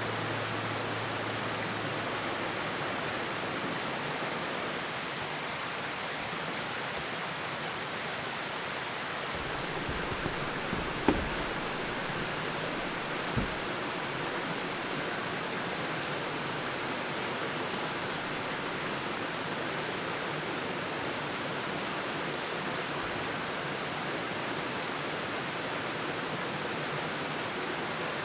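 Steady, even rushing noise with a water-like quality, broken by two short knocks a couple of seconds apart near the middle.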